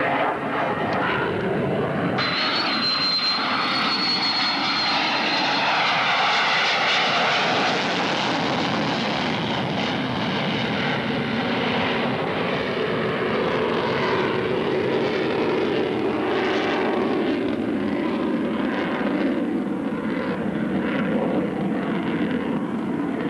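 F-16 Fighting Falcon's single jet engine as the fighter flies its display, a loud, steady rush of engine noise. A thin high whine rides on top from about two seconds in and fades a few seconds later.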